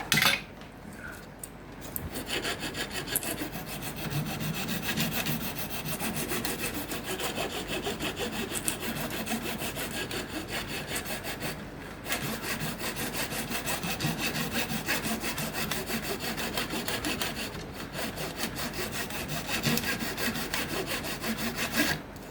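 Hand saw cutting through acacia wood in quick, steady back-and-forth strokes. It pauses briefly twice, and a sharp knock comes just before the sawing begins.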